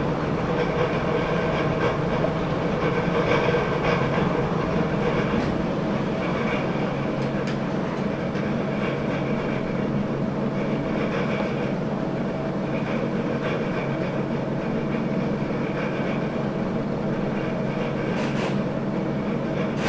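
Heritage train heard from an open carriage window: a steady mechanical drone while the train stands or creeps along, with a couple of short clanks near the end.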